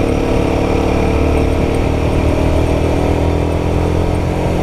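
Royal Enfield Guerrilla 450's single-cylinder engine running at steady mid revs while riding, its pitch easing slightly down partway through.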